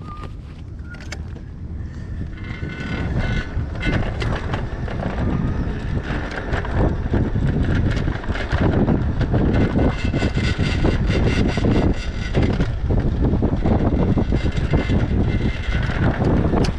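Wind buffeting the microphone of a rider on an electric bike, growing louder over the first few seconds and then holding steady, with frequent clicks and rattles from the moving bike.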